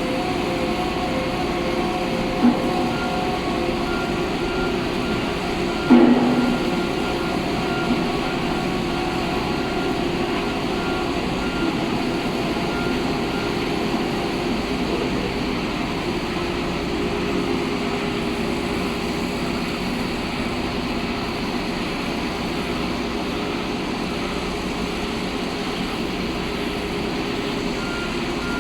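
Heavy construction machinery running steadily at a foundation drilling site, with a sharp metal clank about six seconds in and a smaller one about two and a half seconds in.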